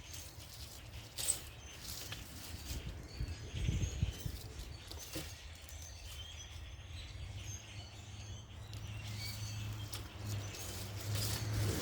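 Small birds chirping faintly in short calls, with a few sharp knocks and a low steady hum that grows louder in the second half.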